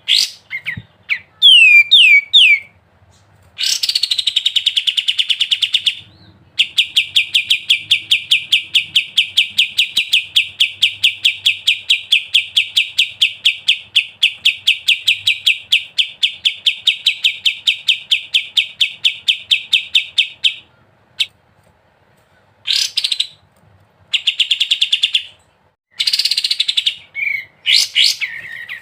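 Kapas tembak bulbul singing in the fast 'ngebren' style: a few quick falling whistles, then a long unbroken rattle of rapidly repeated notes lasting about seventeen seconds, followed by shorter bursts of the same rattle near the end.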